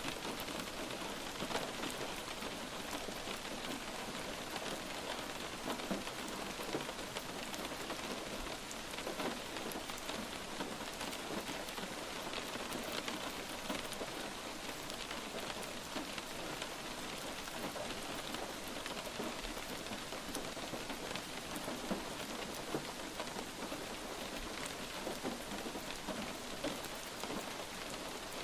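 Light rain falling steadily, an even hiss of rain dotted with many small ticks of individual drops hitting a surface.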